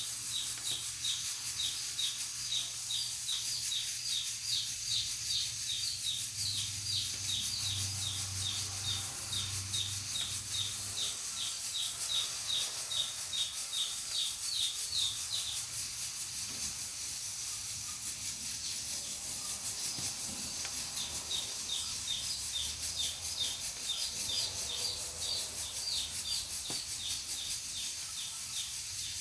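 Pressure cooker on a wood-burning stove hissing steadily as steam escapes. A fast series of short high chirps, about three or four a second, runs over the hiss, breaks off for several seconds past the middle, then returns.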